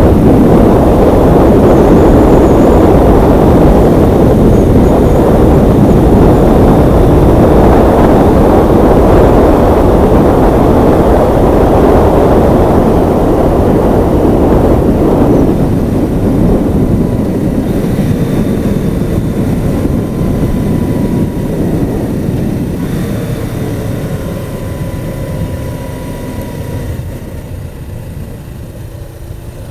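Motorcycle riding at speed: loud rushing wind and engine noise. About halfway through it fades steadily, as if slowing down, with a faint engine tone gliding down near the end.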